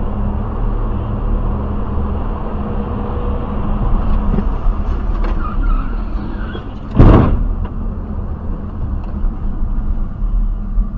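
A car's engine and road noise rumble steadily, with one loud thump about seven seconds in.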